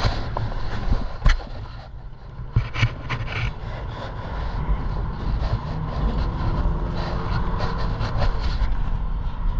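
Riding along on an e-bike: steady wind rumble on the microphone, with a couple of sharp knocks early on and light rattling. A faint rising whine comes in about two thirds of the way through.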